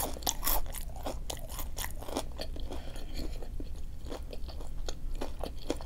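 Close-up chewing with a steady run of small crunches and wet mouth clicks, someone eating Raising Cane's food.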